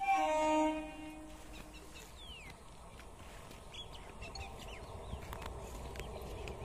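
A loud, short pitched call with strong overtones opens, lasting under a second. Then an EMU electric local train approaches with a low rumble that grows steadily, with a few faint bird chirps over it.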